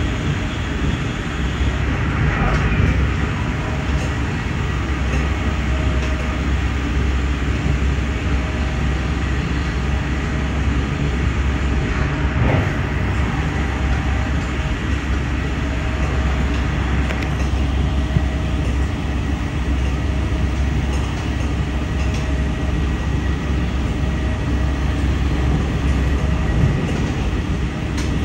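Amtrak passenger train running at speed, heard from on board: a steady low rumble of wheels on the rails, with a few faint clicks.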